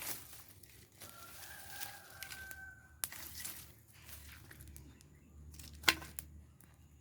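A rooster crowing once, a long held call starting about a second in, over the crackling and rustling of a burning rubbish fire, with a sharp snap near the end.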